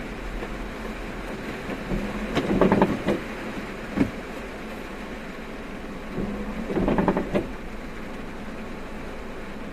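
Steady road and engine rumble heard from inside a moving car, with a short recurring sound about every four seconds and a single click about four seconds in.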